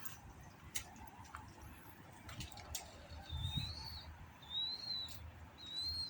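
Three high, arched whistled calls from a wild animal, each about half a second long and a bit over a second apart, starting about halfway through, with a few faint clicks before them.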